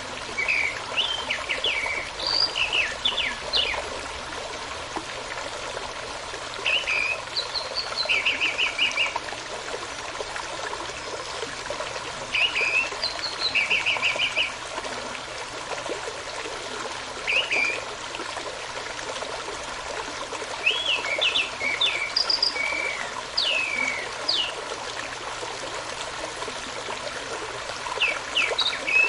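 A running stream with songbirds singing over it in short bouts every few seconds. Several phrases are quick runs of repeated short notes.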